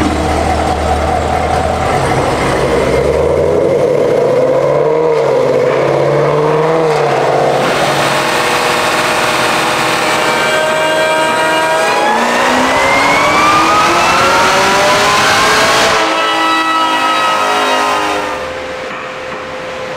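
Chevrolet Camaro ZL1's supercharged LT4 V8 running on a chassis dyno. A full-throttle pull about twelve seconds in climbs steadily in pitch for about four seconds, then cuts off abruptly and the revs fall away as it coasts down.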